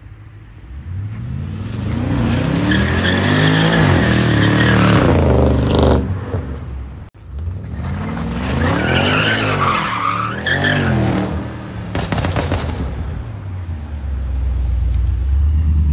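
Stage 1 tuned BMW F10 550i's twin-turbo V8 revving hard, rising and falling in pitch, with the tyres squealing as the car is thrown sideways. It happens twice, with a sudden break about seven seconds in. Near the end the engine runs steadily at low revs with a deep note.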